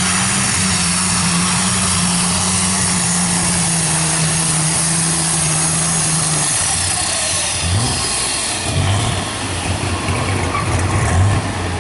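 Unlimited light super stock pulling tractor's engine running hard at a steady pitch under a dense roar, then backing off about six and a half seconds in to a lower, uneven run with the pitch dipping and rising.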